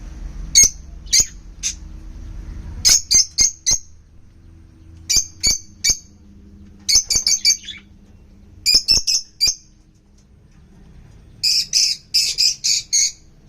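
Small pet parrots calling with short, sharp, shrill chirps in quick clusters of three to five, with pauses between. The longest and loudest run comes near the end.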